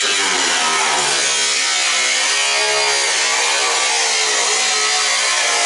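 Handheld electric power tool cutting through the tanning bed's metal, its motor pitch dipping and recovering as it bogs under load.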